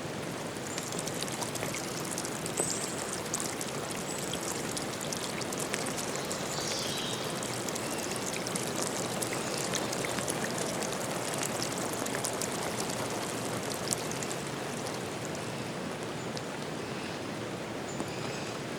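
Steady flowing water, a stream or small waterfall. A few short, high bird calls come over it, one sliding down in pitch partway through.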